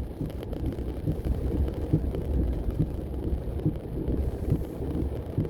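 Car driving, heard from inside the cabin: a steady low rumble of road and engine with small irregular knocks.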